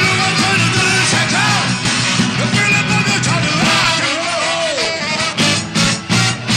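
Live rock band playing loudly, with pitch-bending lead lines over a steady bass and drums. From about five seconds in, the band plays a run of short, sharp stop-time hits.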